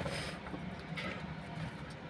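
Pet budgerigars chirping faintly, two short calls, near the start and about a second in, over a steady low hum.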